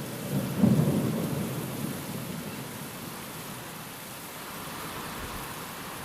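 Thunder rumbling over steady rain: a low roll that swells sharply about half a second in and dies away over the next couple of seconds, leaving the even hiss of rain.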